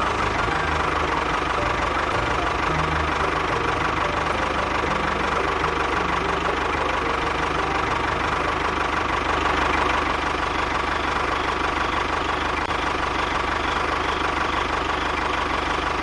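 Small engine of a homemade miniature tractor running steadily at an even speed.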